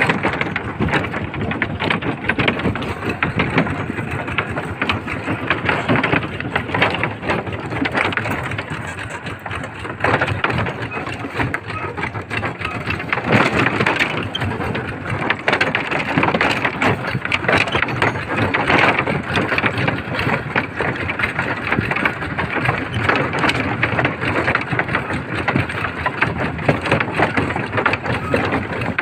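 Small tractor running, a dense, rapid steady clatter that swells and dips a little over time.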